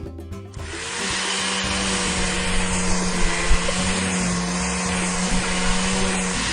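Steady motorised whirring hiss with a held hum underneath, a car-wash machine sound effect, starting about half a second in.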